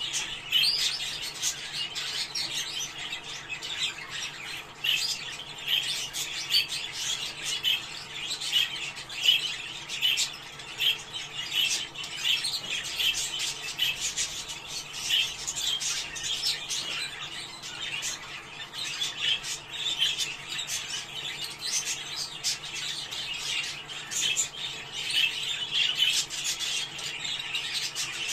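Budgerigars chattering: a busy, unbroken stream of short chirps, warbles and squawks, the kind of budgie chatter played to bring budgies into breeding condition.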